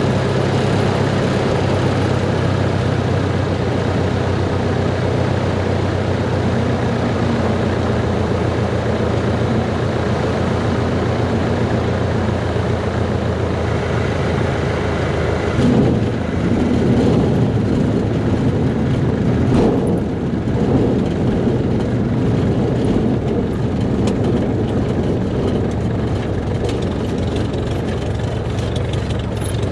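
Cessna 140's four-cylinder Continental engine and propeller running steadily in flight, heard from inside the cabin; about halfway through the engine note shifts and more rushing air noise comes in.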